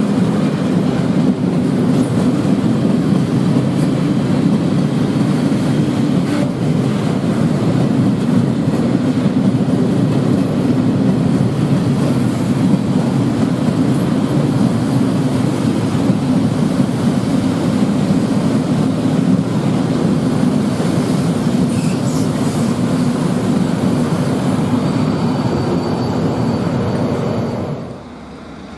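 Train rolling along the track: a loud, steady running noise of wheels on rails, with a faint high squeal in the last few seconds before it cuts off suddenly near the end.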